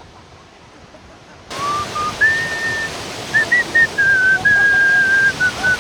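A person whistling a slow tune of long held notes, over a steady rush of surf and wind that cuts in abruptly about a second and a half in.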